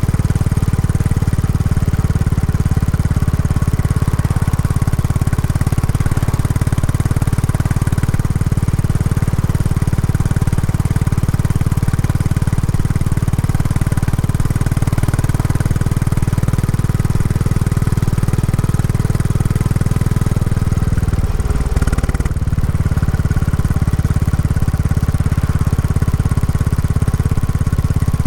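Royal Enfield Classic 350's single-cylinder engine running through its stock exhaust while being ridden, a steady low thumping note. About three-quarters of the way through the note dips briefly and shifts, then settles steady again.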